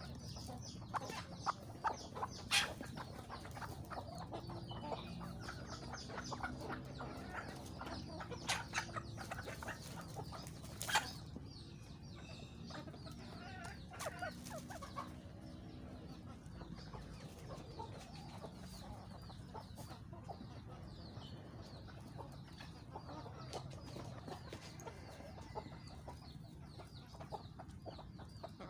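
Chickens clucking continuously, with many short sharp clicks and taps through the first half and a few louder knocks, the loudest about eleven seconds in.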